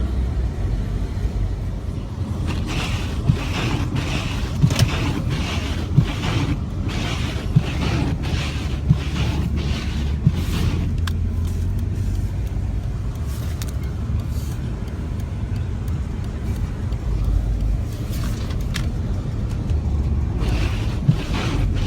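Car driving on a snowy road, heard from inside the cabin: a steady low engine and road rumble. Over it comes a regular swishing thump about every second and a half, which pauses for a few seconds past the middle.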